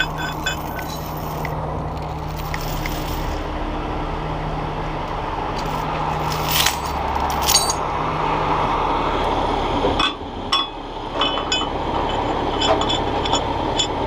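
A truck engine idling steadily under repeated metallic clinks and scrapes of rigging chain and hardware being handled, with two sharper knocks about halfway through and denser clinking near the end.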